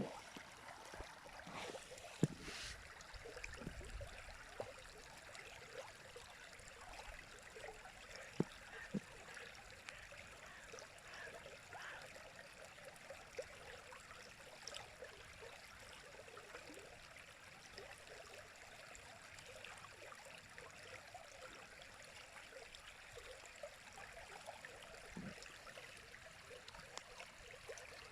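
A river flowing: a steady rush of water with scattered small splashes and gurgles.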